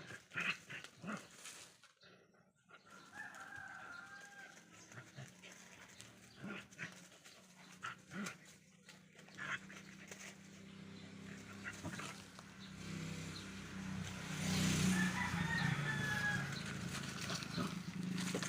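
Dogs playing, with scattered scuffles and clicks, and a short animal call twice. A low steady hum builds in the second half and grows louder near the end.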